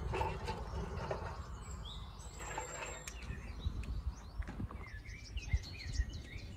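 Small birds chirping repeatedly in short calls, over a low steady rumble.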